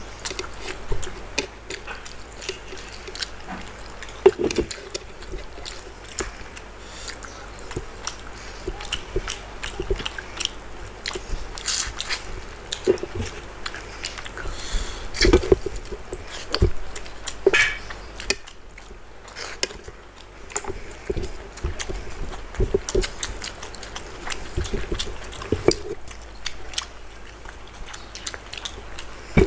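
Close-miked eating by two people: chewing and mouth smacking of chewy chicken gizzard and neck curry, with irregular short clicks and squelches from fingers working the food on the plates.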